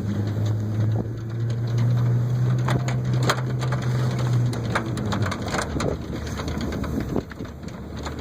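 Pickup truck engine pulling under load, a steady low drone that rises a little and then fades after about five seconds, with irregular crunching and crackling of snow under the plastic IBC-tote sled as it slides.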